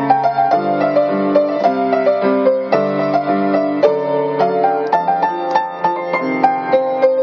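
Solo piano playing a slow melody over lower accompanying notes, with new notes struck about two or three times a second and each one ringing on as it decays.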